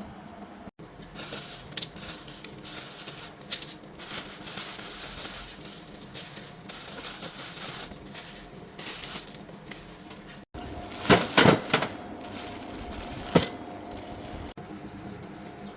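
Small metal parts clinking and clattering as they are handled, with a quick run of sharp, loud metallic clanks about eleven seconds in and a single one about two seconds later.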